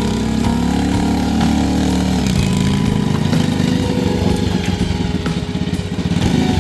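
Small engine of a homemade tractor running. About two seconds in, its steady note changes to a rapid, uneven chugging.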